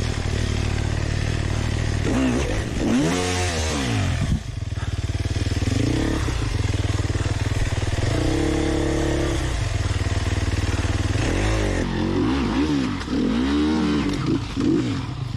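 Dirt bike engine running and being revved hard again and again, pitch climbing and dropping in several bursts, as the bike is driven out of a spot where it is stuck.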